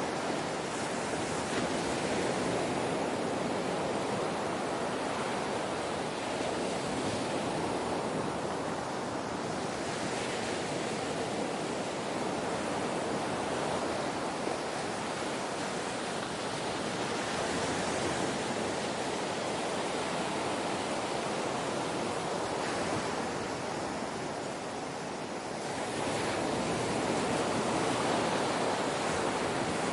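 Ocean waves washing onto a shore in a steady rush of surf, swelling and easing every several seconds.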